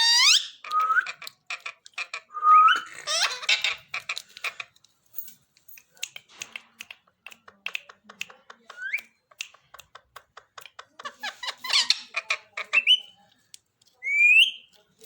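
Pet parrot whistling and chattering: a series of short rising whistles and squawky calls, with quick clicks in between.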